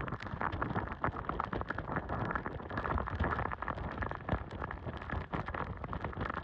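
Heavy hurricane rain driven by strong wind, pelting down as a dense hiss full of many small hits, with low rumbling gusts underneath.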